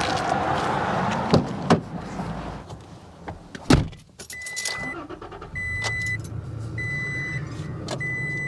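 Knocks and a thud of a vehicle door shutting a little under four seconds in. A Toyota Tacoma pickup's warning chime then beeps four times, about once a second, over the low hum of its running engine.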